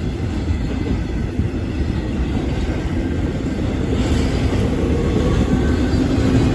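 CSX intermodal freight train's cars rolling past at speed: a steady, continuous rumble of steel wheels on rail.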